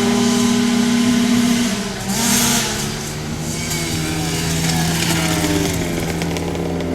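Flat-track racing motorcycle engines running at speed. A steady high note lasts for under two seconds, then there is a brief rev about two seconds in, and then the pitch slowly falls.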